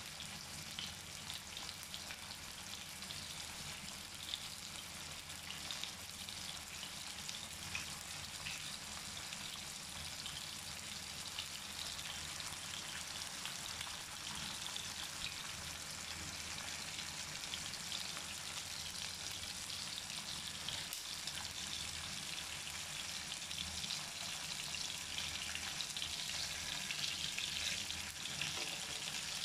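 Marinated chicken tikka pieces sizzling in hot oil in a flat pan, a steady fine crackle that grows a little louder near the end.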